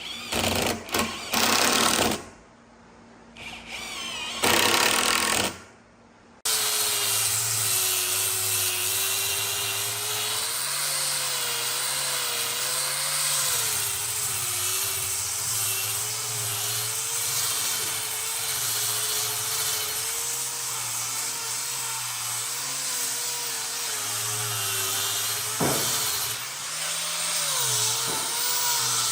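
A power tool is switched on in several short bursts, then runs steadily with its pitch wavering up and down as the load on it changes, as it works the wood.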